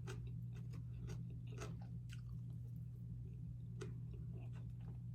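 A person chewing food close to the microphone, with scattered small wet mouth clicks, over a steady low hum.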